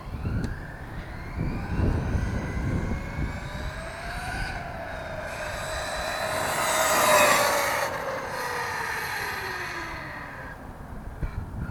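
Electric whine of a 1/8-scale RC truck's Castle brushless motor, rising in pitch as the truck accelerates, loudest about seven seconds in, then falling away as it slows. Low knocks early on from the truck hitting the ground.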